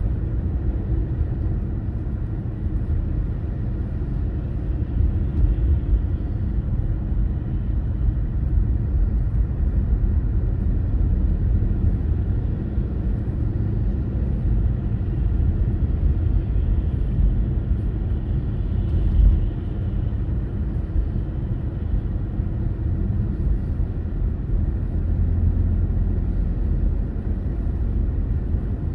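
Car driving: a steady low rumble of road and engine noise, with one brief knock about two-thirds of the way through.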